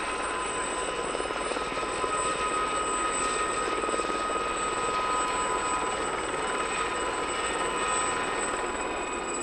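Westland Gazelle helicopters flying a display: a steady rushing noise of rotor and turbine, with a high whine of several steady tones on top, a little louder from about two seconds in.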